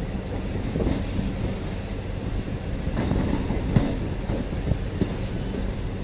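Local passenger train running on the track: a steady low rumble with a few irregular sharp knocks from the wheels and carriage, the loudest nearly four seconds in.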